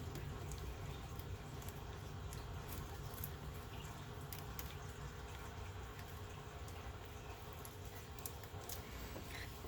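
Faint scattered clicks and light rustling from hand work on radiator fittings, over a steady low hum.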